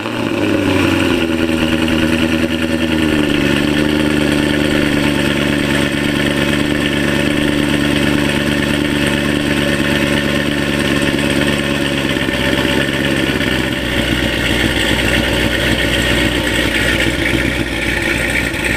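Pontiac G8's ProCharger-supercharged V8 cold-starting: it catches at the very start with a high idle that falls over the first few seconds, then settles into a steady, loud cold idle.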